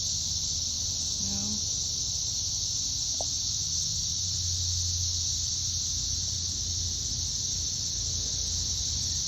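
Chorus of periodical cicadas in the trees, a steady high-pitched drone that does not let up. A brief voice sound comes about a second in.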